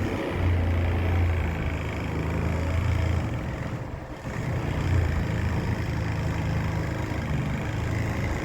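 Engine of a heavy crane running steadily while it holds a building in a lift, a low hum that dips briefly about four seconds in.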